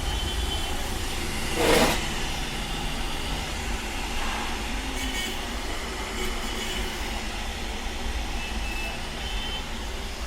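Electric water kettle with water boiling inside, a steady rumbling rush, with a brief louder surge about two seconds in; the sign that the repaired kettle is heating again.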